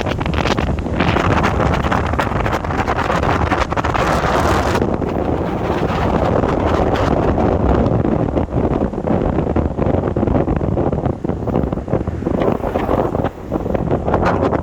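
Wind buffeting the microphone: a loud, gusty rumble and rush that stays strong throughout, its higher hiss dropping away about five seconds in.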